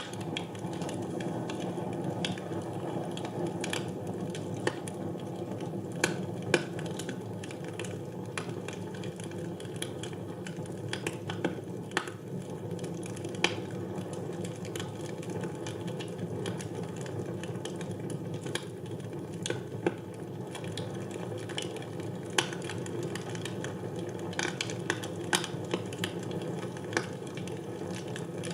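Wood fire burning in a fireplace: a steady low rush of flame, with irregular sharp crackles and pops from the burning logs.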